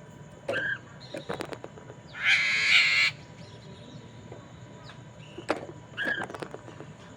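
Poksay mandarin (masked laughingthrush) calling: a few short call notes, and about two seconds in one loud harsh rasping call lasting about a second, then more short notes near the end.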